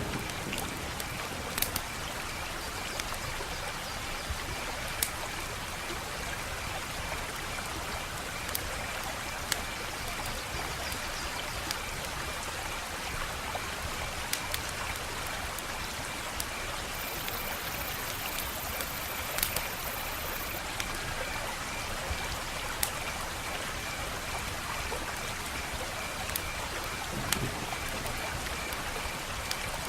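Wood fire crackling: a steady hiss with sharp pops at irregular intervals. A faint high pulsing tone runs underneath.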